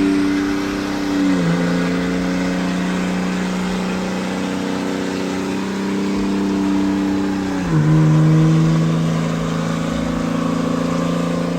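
Pickup truck engine held at high revs during a burnout, with a steady, loud note. The pitch drops abruptly twice, about a second and a half in and again about eight seconds in.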